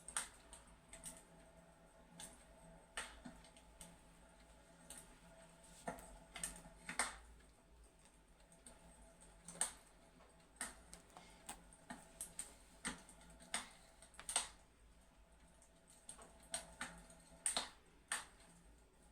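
Fireplace crackling: irregular sharp pops and snaps over a quiet bed, a few louder cracks standing out.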